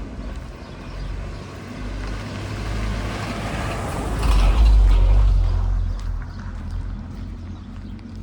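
A motor vehicle passing close by on the street: its engine rumble and tyre noise build, peak about four and a half seconds in, and fade away.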